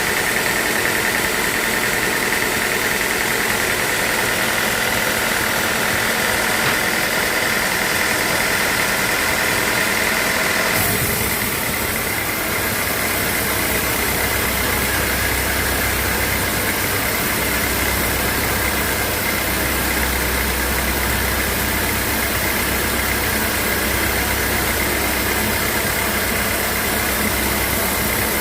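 Sawmill machinery running steadily, with a constant high whine. About eleven seconds in, the sound shifts and a low hum joins it.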